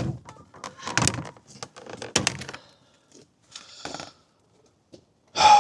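Plastic interior trim and handle parts of a car door being worked loose by hand: a quick run of clicks, knocks and rattles, then a short scrape about four seconds in. A loud brief sound near the end, likely a breath or voice.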